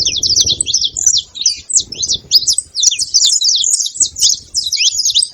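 Saffron finch chattering: a rapid, unbroken string of high, sharp chirps and quick downward-sweeping notes.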